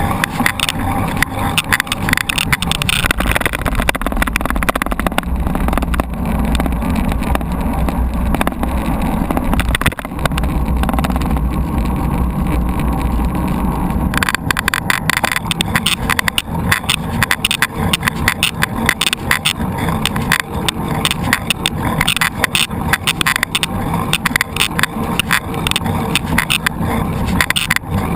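Mountain bike riding over rough ground: wind rumble on the microphone with tyre noise and rattling. About halfway through the low rumble drops away and the rattling and clattering become dense.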